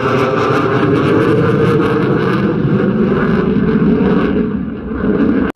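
Aircraft engine noise, loud and steady as a display plane flies by, easing slightly near the end and then cutting off abruptly.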